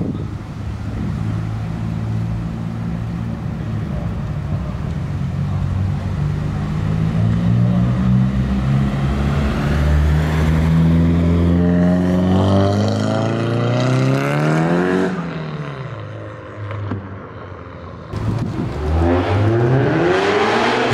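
Car engine running at low revs and pulling away, then accelerating hard with a rising pitch until it drops off and fades about 15 seconds in. Near the end an engine revs up steeply again.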